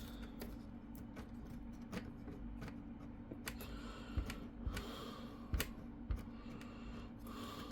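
Plastic clicks and knocks of an HP Pavilion G6 laptop's case and internal parts being handled and pried apart during disassembly, with a few louder knocks about four, five and a half and six seconds in. A steady low hum runs underneath.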